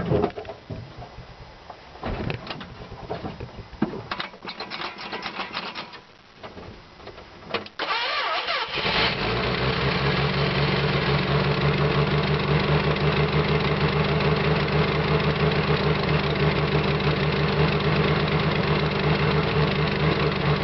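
Dodge truck engine cold-starting after two weeks unused: some knocks and short bursts of starter cranking, then it catches about eight seconds in and settles into a steady idle.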